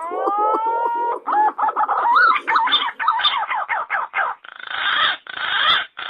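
Pigeon lure call of the green-pigeon (punai) type: a long whistle that rises and levels off, over a low pulsing note. It then breaks into a fast run of warbling whistled notes and ends in rougher, harsher notes.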